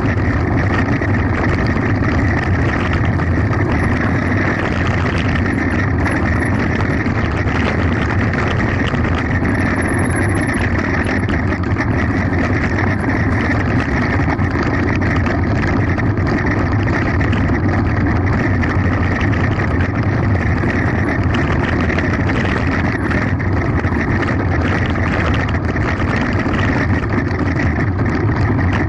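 Mountain bike descending a gravel forest road: a steady loud rush of wind on the camera's microphone, with the bike and its load rattling and tyres crunching over the stones throughout.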